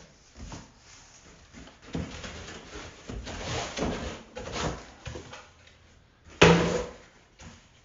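A cardboard box being opened and its contents handled: irregular scraping and rustling of cardboard and packing, with one loud knock about six and a half seconds in.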